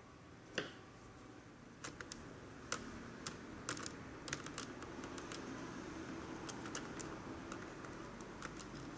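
Irregular light plastic clicks and taps from a netbook being handled and worked on, one sharper click about half a second in.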